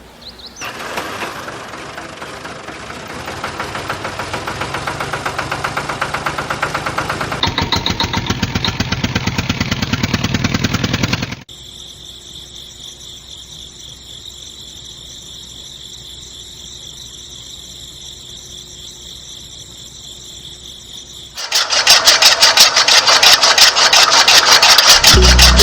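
Small engine running with a rapid pulsing beat that grows louder and quicker over about ten seconds. It cuts suddenly to a quieter steady running sound with a high whine, then about two-thirds of the way through to a loud, fast-pulsing engine sound.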